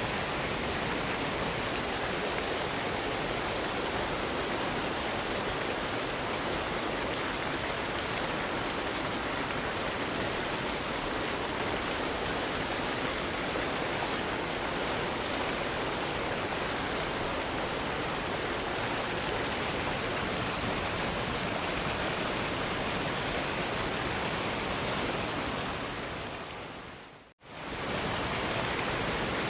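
Steady, even rushing of a waterfall, which fades out to silence about 27 seconds in and fades straight back in.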